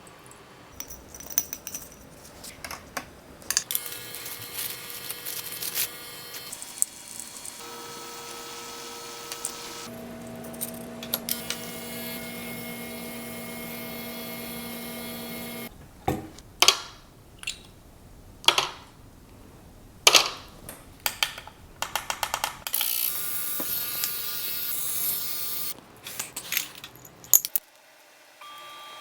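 Small sharp metallic clicks and taps of hand tools on watch parts during disassembly of a vintage wristwatch, over a steady hum whose pitch shifts a few times.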